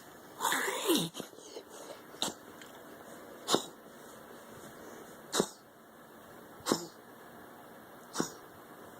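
A dog reverse sneezing: one long noisy, rasping spasm about half a second in, then five short sharp sneeze-like snorts, about one every second and a half.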